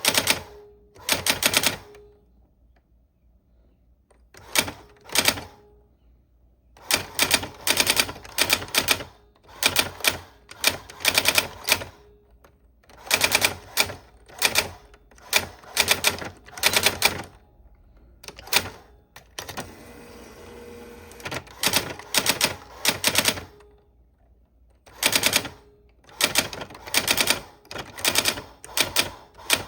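Keys of an old typewriter being typed on, rapid clacking keystrokes in bursts of a second or two with short pauses between them.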